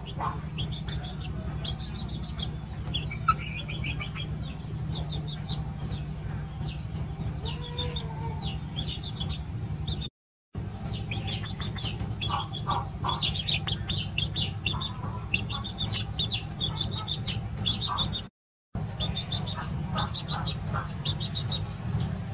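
Chickens clucking with many quick, high chirps over a steady low hum; the sound cuts out briefly twice.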